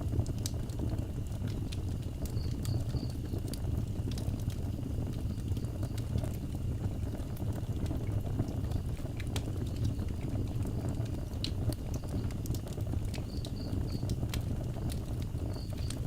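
Wood fire burning, with scattered crackles and pops over a steady low rumble. Faint high chirps in quick groups of three come a few times.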